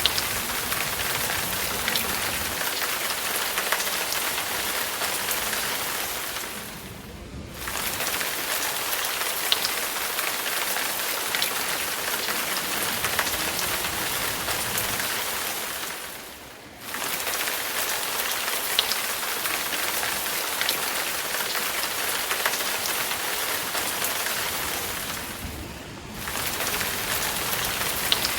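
Steady hiss of rain with scattered single drop ticks, fading briefly and coming back three times at even intervals of about nine seconds.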